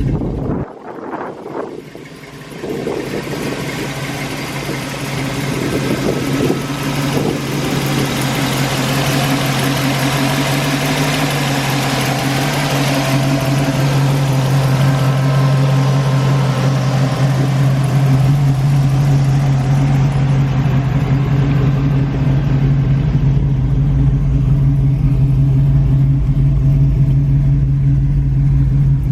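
Chevy small-block V8 engine of a 1934 Plymouth street rod running steadily. After a brief dip near the start it carries on as an even hum that grows gradually louder, with more low rumble in the second half.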